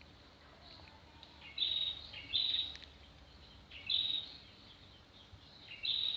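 A bird calling four times, short high two-note calls, over faint outdoor background noise.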